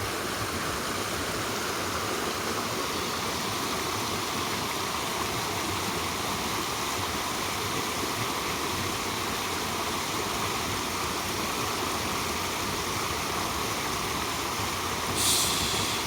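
Steady rushing of a mountain stream's flowing water, with a brief louder hiss about fifteen seconds in.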